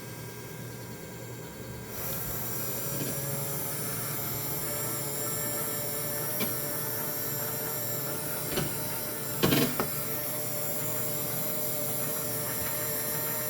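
Mini washing machine's small electric motor starting about two seconds in and running steadily with a whirring hum. A few short knocks come over it, the loudest a quick cluster a little past the middle.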